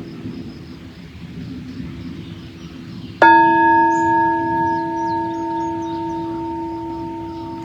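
A singing bowl struck once about three seconds in, ringing on with several steady overtones that fade slowly, signalling the end of the final relaxation. Birds chirp faintly in the background.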